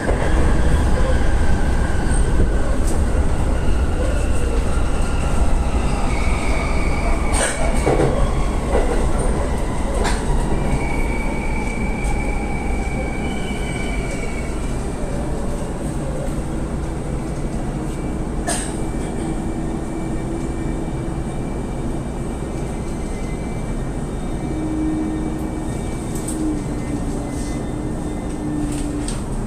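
Electric commuter train pulling into a station platform and braking, its motor whine falling steadily in pitch as it slows, over a steady rumble. Short high squeals come at times, and there are a few sharp clicks; the sound eases off as the train comes to a stop.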